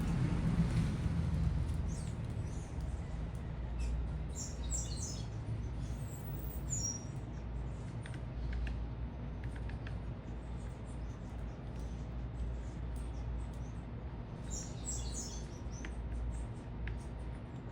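Small birds at a feeder chirping in short bursts of high notes, a few clusters a few seconds apart, over a steady low city rumble.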